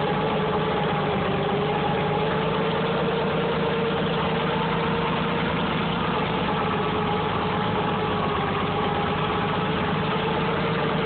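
Farmall 460 tractor's six-cylinder gasoline engine running at a steady idle, just caught on a cold start after being flooded. Its pitch sags slightly about a second in, then holds even.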